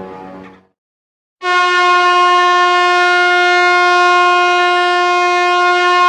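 A loud, long horn blast held at one steady pitch, starting about a second and a half in after a short silence. Before it, the tail of a deeper horn-like tone fades out.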